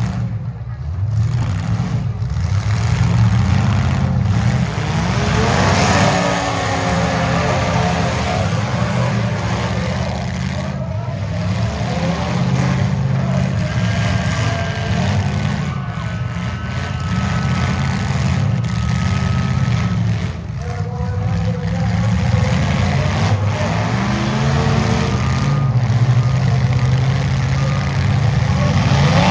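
Several compact demolition derby cars' engines running loudly together, with revs rising and falling. There is a surge of revving about six seconds in and again near the end.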